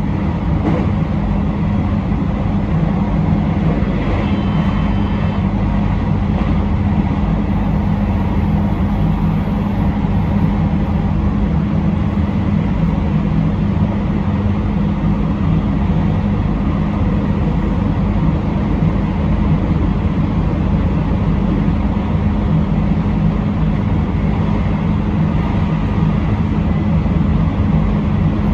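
Train running steadily along the line, heard from on board: an even rumble of the wheels on the rails under a steady low hum.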